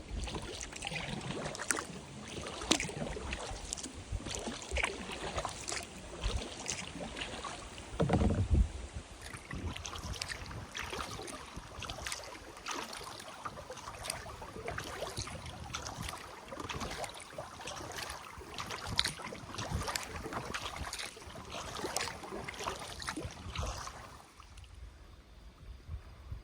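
Kayak paddle strokes: water splashing and dripping from the blades, with a low thump about eight seconds in. The splashing eases off near the end.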